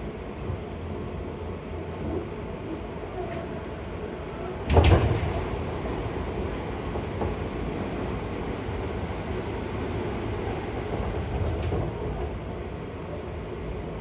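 Seibu 6000 series electric train running, a steady rumble of wheels on track, with a sudden loud thump about five seconds in.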